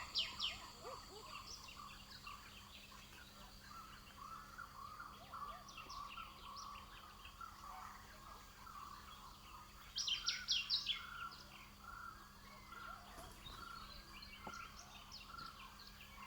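Birds chirping and calling, faint, with a louder flurry of quick chirps about ten seconds in.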